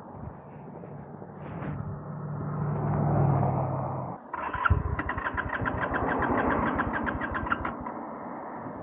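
Motorcycle engine running and getting louder, then cutting out suddenly about four seconds in. The electric starter then cranks it with fast, even pulses for about three seconds without it catching: the bike has run out of gas.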